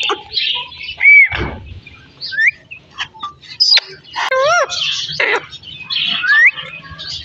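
Parrot chattering and whistling: short rising and arching whistles, several in a row, mixed with scratchy high-pitched chatter and clicks.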